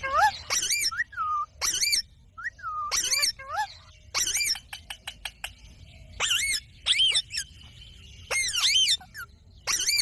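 Indian ringneck parakeet calling: a string of short, shrill squawks and chatter with quickly wavering pitch, about a dozen calls with brief pauses between.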